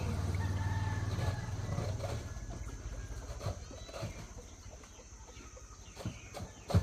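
Motorcycle engine moving away and fading out over the first couple of seconds, with faint chicken calls and a few scattered short knocks after it.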